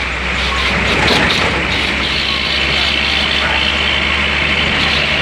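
Heavy bus engine running with a steady low drone under a constant hiss of road noise, heard from on board the moving bus.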